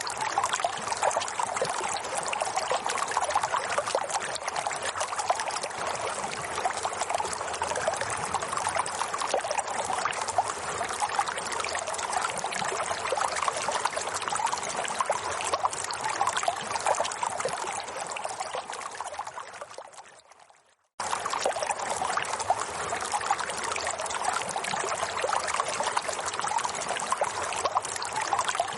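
Steady running water, a stream-like trickling and gurgling. About two-thirds of the way through it fades to silence and then cuts straight back in.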